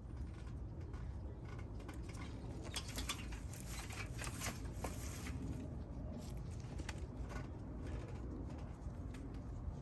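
Rustling and crackling of morning glory vines and leaves being pulled up by hand, in irregular bursts over a low steady rumble.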